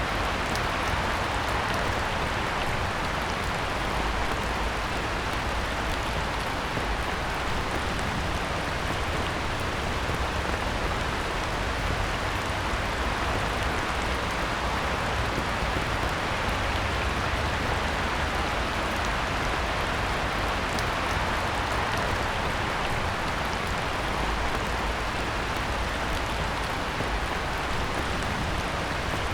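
Heavy rain falling on a pond: a steady, even hiss of downpour with many individual drop ticks, unchanging throughout.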